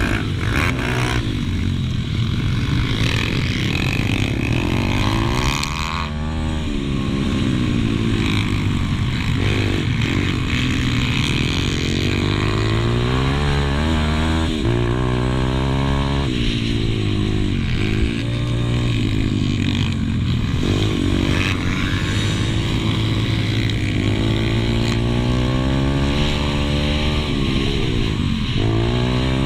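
Pit bike engine heard from on board while racing, revving up through the gears and dropping back again and again as the throttle is opened and shut through the corners.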